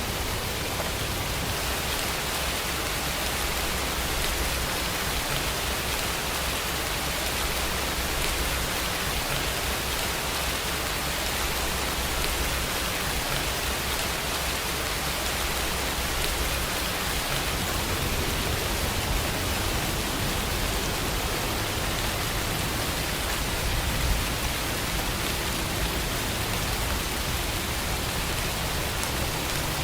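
Steady rain falling, an even hiss of many drops. About halfway through, a low rumble of distant thunder builds in underneath.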